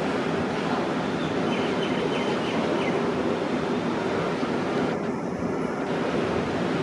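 Freight train wagons rolling past: a steady, unbroken rumble of wheels on rails.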